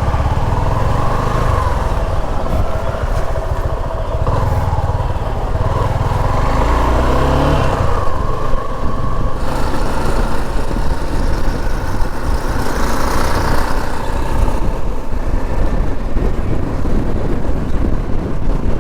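Honda CBR250 motorcycle engine pulling through the gears while riding, its note rising and falling several times, with wind noise on the microphone.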